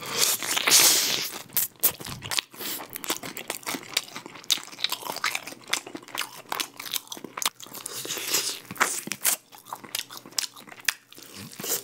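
Close-miked crunching and chewing of crispy-coated Goobne Honey Curry Basasak chicken: a loud crunching bite at the start, then many smaller crunches and wet mouth clicks as it is chewed.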